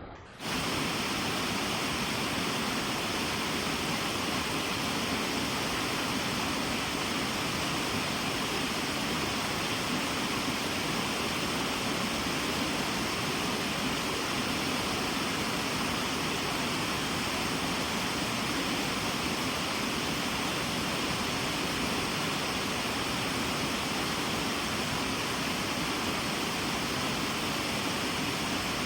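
Waterfall: water falling and rushing steadily, coming in abruptly about half a second in.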